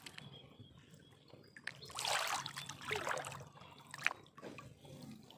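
Water trickling and splashing in short bursts, with a few small clicks.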